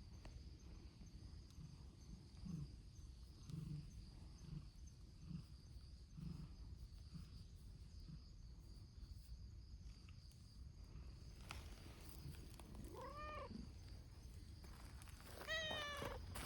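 Free-roaming domestic cat purring softly, its purr swelling about once a second with each breath. In the last few seconds a cat meows twice, each call rising and then falling in pitch.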